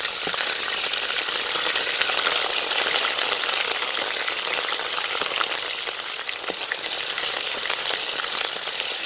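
Ginger paste sizzling and crackling steadily in hot oil in an aluminium pot, stirred with a wooden spoon.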